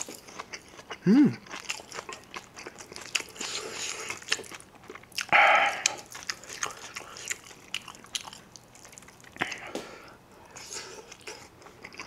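Close-miked eating of spicy kimchi fried rice: chewing and crunching, with a metal spoon clinking and scraping on a ceramic plate. A short hum comes about a second in, and a loud hissing breath out about halfway through, a reaction to the heat of the very spicy kimchi.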